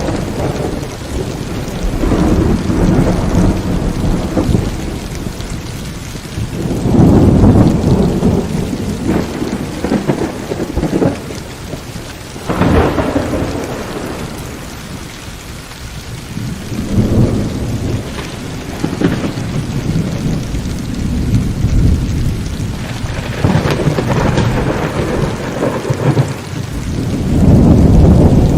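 Heavy rain falling steadily through a thunderstorm, with several long rolls of thunder rumbling in and out. The loudest rolls come about a quarter of the way in and near the end.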